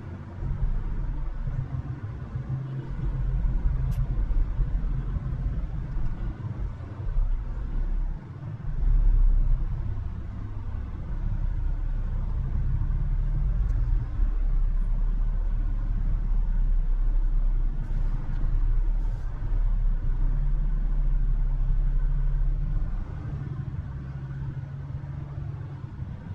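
Low, continuous rumble of a Toyota FJ Cruiser driving in heavy wind. The level keeps rising and falling, with a brief swell about nine seconds in.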